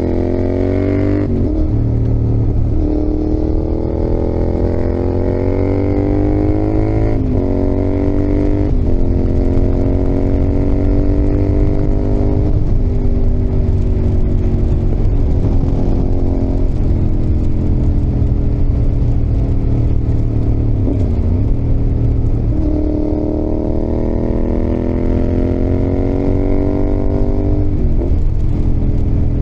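Yamaha XSR700's CP2 parallel-twin engine (crossplane crank) pulling under load while riding, its revs climbing again and again, each climb cut off by a sharp dip as the gear changes. A steady low rumble runs underneath.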